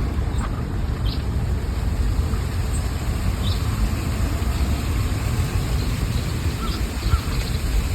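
Wind on the microphone, a steady low rumble, with short bird chirps now and then.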